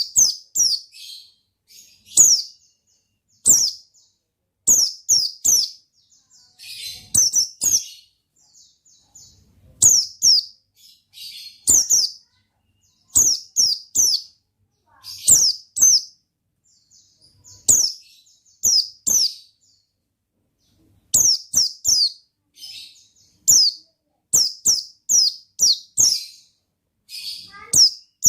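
White-eye (pleci) singing in short clusters of quick, high, downward-sweeping notes, two to four to a cluster, with brief pauses between clusters.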